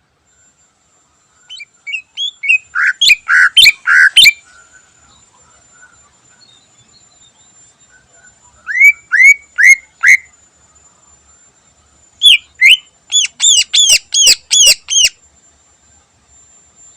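Cucak ijo (green leafbird) singing: three bursts of sharp, loud downslurred whistles. The first and last are rapid runs of about ten notes, and the middle one is four slower notes.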